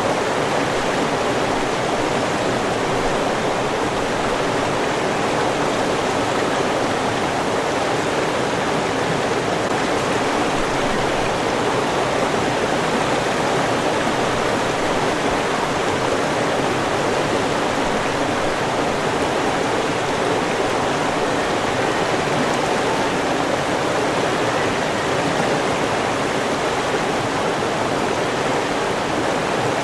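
River water flowing steadily, a constant rushing sound without breaks.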